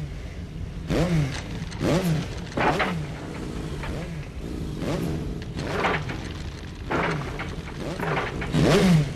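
Motorcycle engines revving and passing close by one after another, about once a second, each engine note falling in pitch as it goes past.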